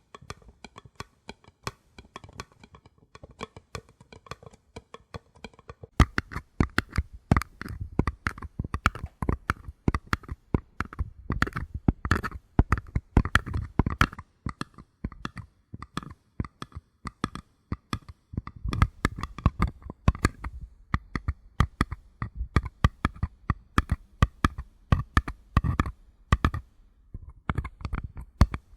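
Fingertips and nails tapping rapidly on paper cups, light and soft for the first few seconds, then louder and denser with a fuller, hollow knock from about six seconds in.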